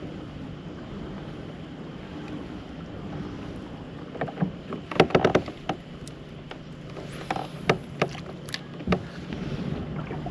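Knocks and clicks from gear being handled in a kayak: a quick cluster of sharp clicks about four and a half to five and a half seconds in, then a few single knocks later, over steady low background noise.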